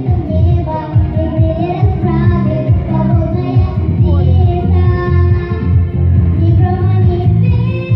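A young female voice singing a melodic song line over loud instrumental accompaniment with a strong bass.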